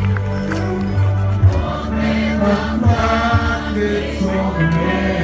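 Gospel worship music: several voices singing together over sustained low instrumental notes.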